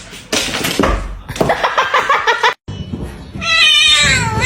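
Domestic cat yowling and meowing. After a sudden cut about two and a half seconds in comes one long, wavering meow that falls in pitch near the end.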